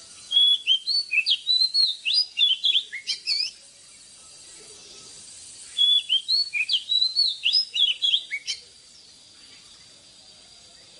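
Oriental magpie-robin singing two quick phrases of varied whistled notes, each about three seconds long, with a short pause between them.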